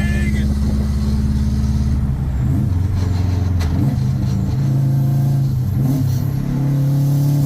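Subaru 2-liter WRX four-cylinder engine running under way in the car. Its note holds steady, then changes pitch about two and a half seconds in and rises and falls as the revs vary.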